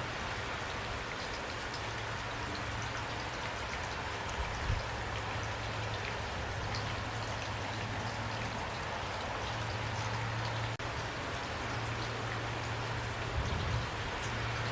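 Steady rain with individual drops pattering, over a constant low rumble.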